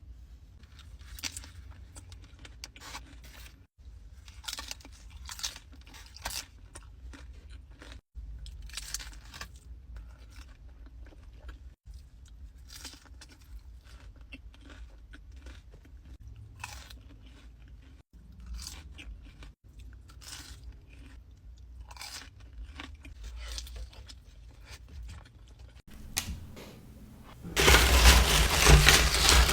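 Close-miked crunching and chewing of nacho tortilla chips, one irregular crisp bite after another. Near the end a much louder, dense crackling noise takes over.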